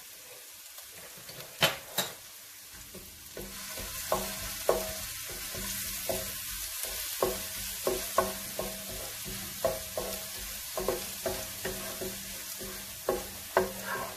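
Garlic-ginger paste sizzling in hot ghee in a non-stick wok. It is stirred with a wooden spatula that knocks against the pan again and again. Two sharp taps come near the start, and the sizzle grows about three seconds in.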